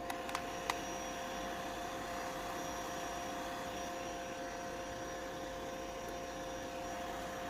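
Electric heat gun blowing steadily with a constant whine, shrinking heat-shrink film onto a battery pack. A couple of light clicks in the first second.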